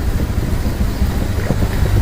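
Motorcycle riding along at low speed, with wind rumbling heavily on the microphone.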